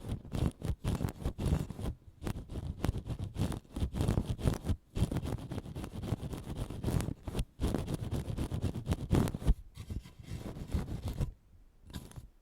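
Ear pick scraping and scratching close to the microphone in quick, irregular strokes with brief pauses between runs. The strokes are coarse and fairly loud rather than soft.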